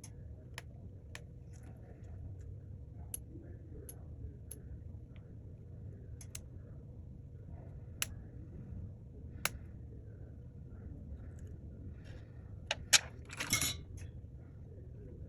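Light clicks and taps of small parts and tools being handled on a repair bench, with a sharper click about 13 seconds in followed by a brief rustle. A low steady hum runs underneath.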